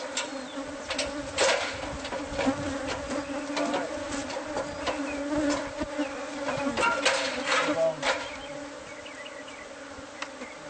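A swarm of honeybees buzzing steadily at two held pitches, with scattered sharp clicks and knocks through most of it; near the end the knocks stop and only the quieter buzz remains.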